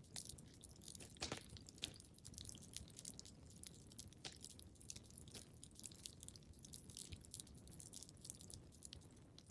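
Wood fire crackling in a fireplace: irregular small pops and snaps over a low, steady rumble, with a couple of louder pops a little over a second in.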